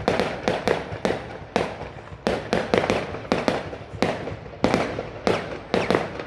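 Fireworks going off in a rapid string of sharp bangs, two or three a second, with echoing tails.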